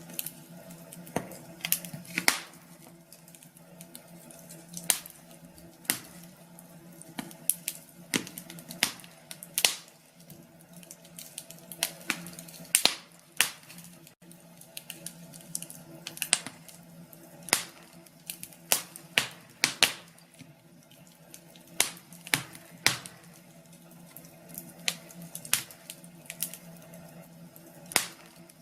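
Wood fire crackling in a fireplace: irregular sharp pops and snaps over a soft steady hiss, with a faint steady low hum underneath.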